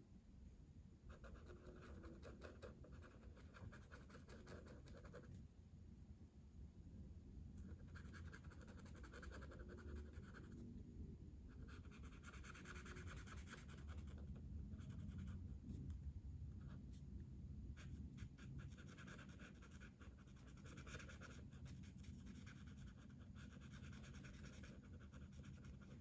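Faint scratching of coloring strokes on paper, rapid back-and-forth strokes in spells of a few seconds with short pauses between them.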